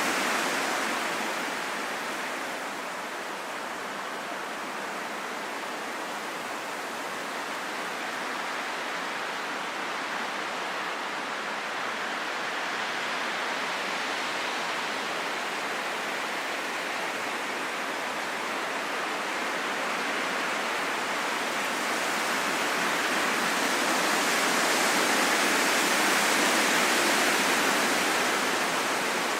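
Wind blowing as a steady rushing hiss with no whistling tone, easing a few seconds in and swelling again near the end.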